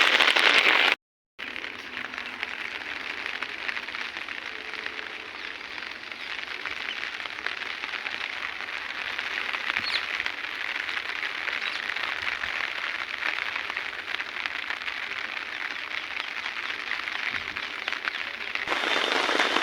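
Heavy rain falling steadily, a dense hiss of drops with fine crackle. Just after a second in, the sound cuts out briefly; it comes back quieter and swells again near the end.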